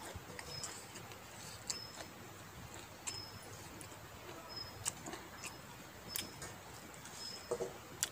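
Close-miked eating sounds: wet mouth clicks and smacks of chewing rice and pork, while fingers mix rice on a brass plate. Short high chirps come and go every second or so.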